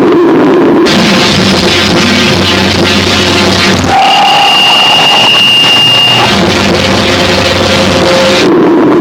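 Harsh noise music: a loud, dense, distorted wall of noise that switches texture abruptly several times, with a steady high tone and a lower tone cutting in about four seconds in.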